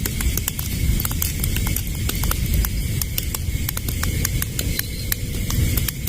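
Campfire crackling and popping, with many sharp, irregular snaps over a steady low rumble.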